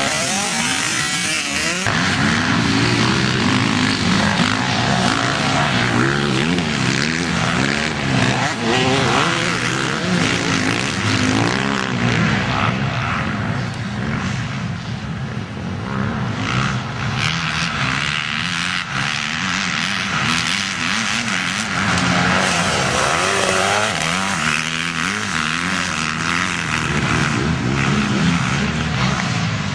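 Motocross bike engines revving up and down, their pitch rising and falling over and over as the bikes accelerate and back off. The sound eases for a few seconds around the middle.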